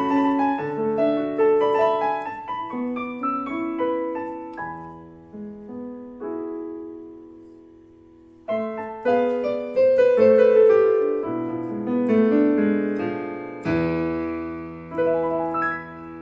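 Casio CT-S1 digital keyboard playing a piano voice: a chordal passage that dies away about six to eight seconds in, then a louder new phrase starting.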